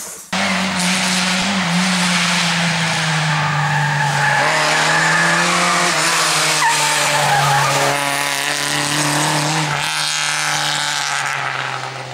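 Lada 2107 rally car at speed, its engine held high in the revs with the pitch dipping slightly a few times, over heavy tyre and road noise. The sound cuts in abruptly a moment in.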